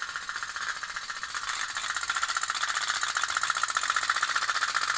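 Otok-otok pop-pop toy boat running: its small flame-heated boiler makes a rapid, even popping pulse that gets a little louder about two seconds in.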